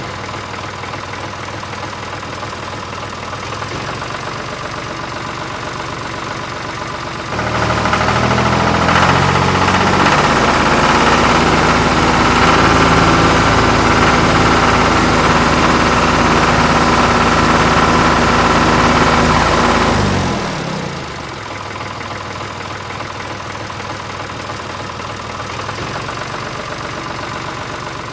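An engine running at idle, then revving up, louder and higher in pitch, about seven seconds in, holding there, and dropping back to idle about twenty seconds in.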